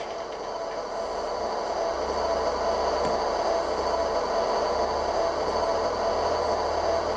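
MTH RailKing R26/R28 Redbird model subway train running steadily on its track, a continuous hum of its motor and sound system with a low rolling rumble underneath.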